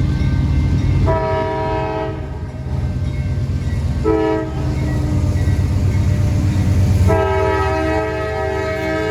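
Nathan K5LA five-chime air horn on a CSX GE AC44CW diesel locomotive sounding three times: a blast of about a second, a short tap about four seconds in, and a longer blast starting near the end. All three sound over the heavy steady rumble of the passing freight train.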